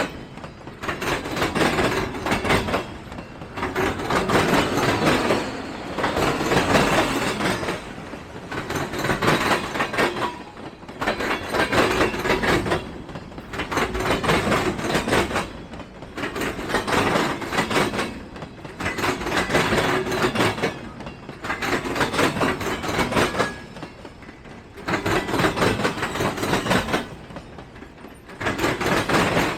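Freight train cars rolling past. The clatter of the wheels swells and dips about every two and a half seconds as each car goes by.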